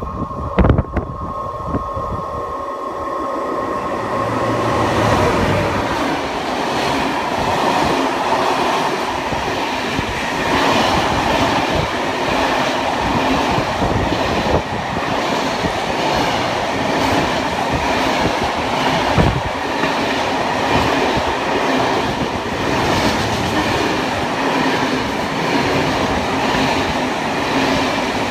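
Loaded timber freight train's log wagons rolling past close by: a steady, loud rumble of wheels on rails with a rhythmic clatter, growing louder over the first few seconds and then holding.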